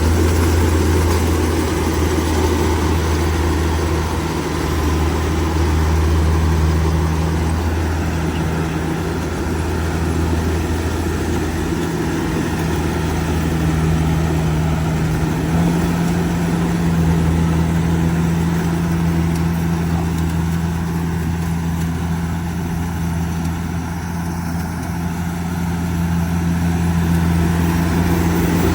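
Kubota DC70G Plus combine harvester's diesel engine running steadily, with a low, even hum.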